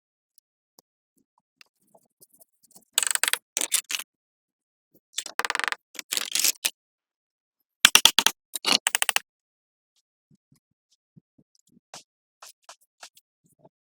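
Short scraping strokes in three quick groups, each a few strokes long, with silence and a few faint ticks between.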